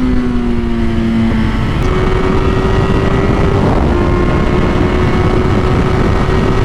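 Kawasaki Z800 sportbike's inline-four engine running hard at speed under heavy wind rush. Its note slides down over the first second and a half, then holds steady at a higher pitch.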